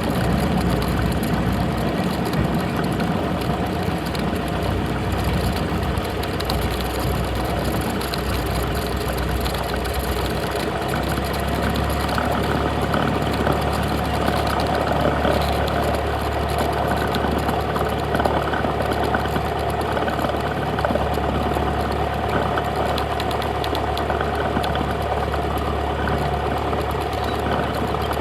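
A Cessna 172 light aircraft's piston engine and propeller droning steadily, heard from inside the cabin. The low drone grows stronger about eleven seconds in.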